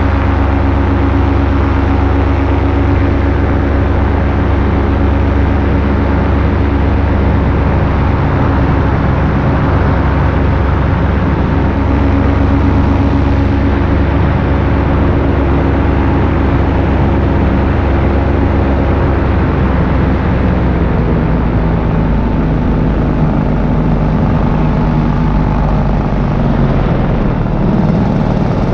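Paramotor engine and propeller running steadily in flight, loud and close to the microphone. Its pitch shifts a little lower about two-thirds of the way through.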